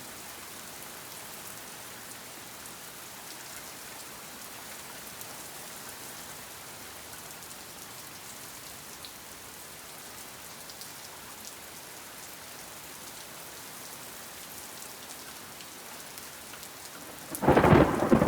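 Heavy rain pouring steadily, then near the end a sudden, very loud clap of close thunder breaks in and keeps rumbling.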